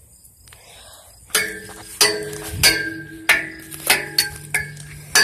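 Repeated sharp metallic strikes, each followed by a brief ringing, starting about a second in and coming about one and a half times a second.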